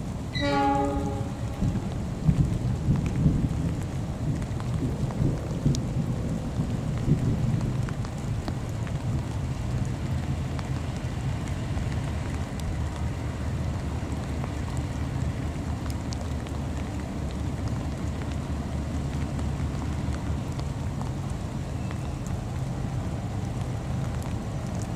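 Diesel passenger locomotive pulling into a station in rain: a short horn blast about half a second in, then a heavy low rumble with several knocks from the wheels over the first several seconds, settling into a steady low diesel drone as it runs slowly in. Rain patters throughout.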